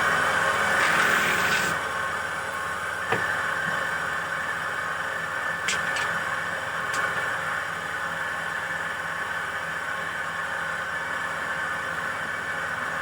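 Handmade wooden dowel machine running under its motor: a steady mechanical whir. It is louder and harsher for about the first two seconds, then settles into an even run, with a few sharp ticks along the way.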